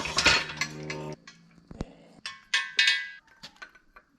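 Work on a bare engine: a steady pitched whir that stops suddenly about a second in, followed by sharp metallic clinks and short high ringing tones of metal on metal.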